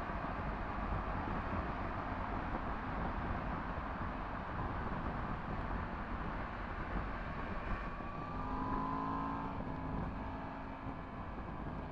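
Yamaha MT-10 SP's crossplane inline-four with an Akrapovic exhaust running under way on the road. About eight seconds in, a clearer engine note rises briefly as it pulls, then settles back.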